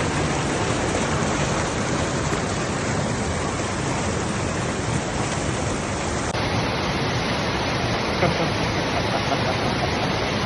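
Waterfall pouring, a steady, loud rush of water.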